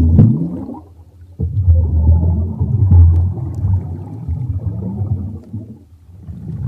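Low, rumbling animal calls: a short call that rises in pitch, then after a brief pause a longer, deep rumbling call.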